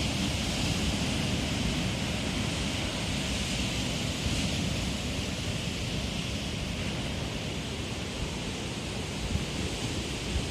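Winter surf of the Mediterranean washing onto the shore as a steady hiss, with wind buffeting the microphone in a low, gusty rumble that grows stronger near the end.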